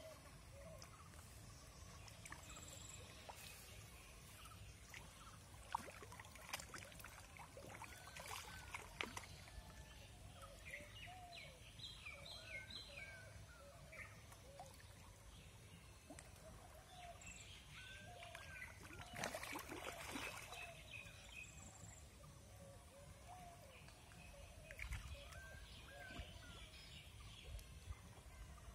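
Faint outdoor ambience with scattered short bird calls, including a quick run of chirps about twelve seconds in, and a brief noisy burst about twenty seconds in.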